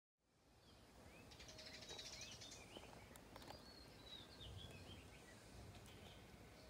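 Faint outdoor ambience that fades in just after the start, with small birds chirping in quick short notes through the first half and a few faint clicks.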